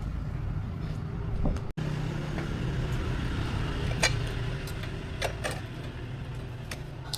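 Small two-stroke engine running steadily, with a few sharp clicks or knocks in the second half.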